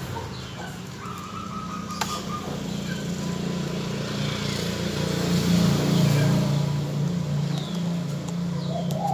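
A motor vehicle engine passing, a low hum that grows louder toward the middle and then fades, with a few faint high bird chirps over it.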